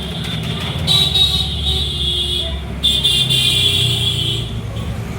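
Parrots screeching: two long, harsh calls about a second in and again near the middle, over a steady low rumble.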